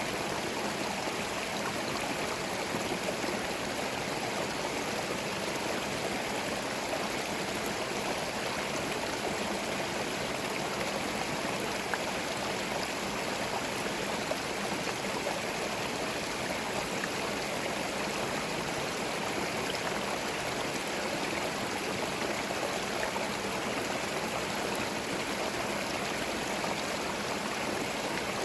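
A small forest stream running over stones: a steady, even rush of water with a fine trickling and gurgling texture.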